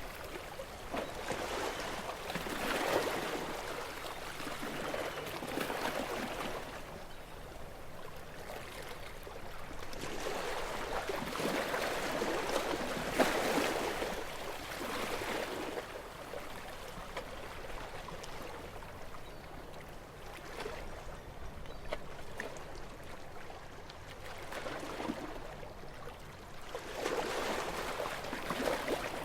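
Small, gentle sea waves washing in and drawing back, a hiss of water that swells and fades every few seconds.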